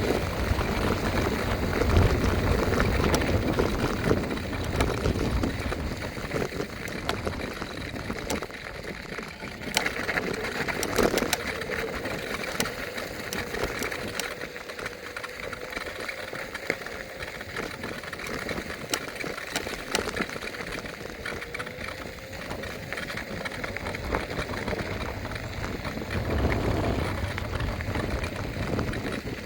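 Electric scooter riding along: wind buffeting the microphone and tyre rumble on the road surface, with a faint, slowly rising motor whine through the latter part. A few sharp rattles come about ten seconds in.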